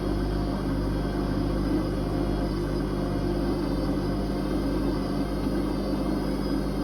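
Whirlpool Indiana 1400 washing machine running, with a steady motor hum and drum whir that does not change.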